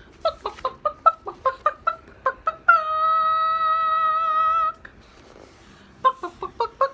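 Chicken clucking: a quick run of short clucks, then one long steady squawk of about two seconds, then more rapid clucks near the end.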